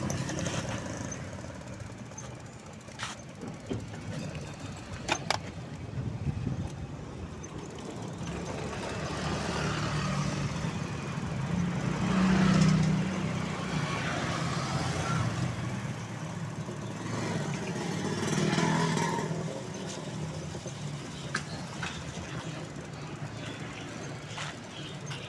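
Road traffic: motor vehicles passing, their low rumble swelling and fading twice. A couple of sharp clicks come a few seconds in.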